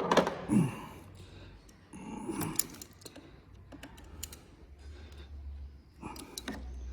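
Small clicks, taps and scrapes of a screwdriver working on a stiff screw in a motorcycle handlebar bar, coming in irregular clusters.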